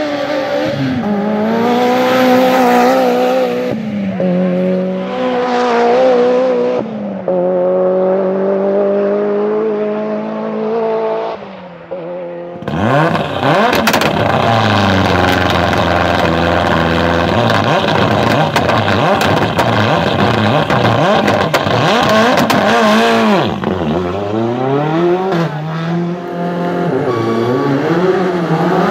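Rally car engines at high revs, the pitch climbing and dropping through gear changes and lifts off the throttle. About twelve seconds in the sound switches abruptly to a second, louder car with a denser engine note and scattered sharp cracks.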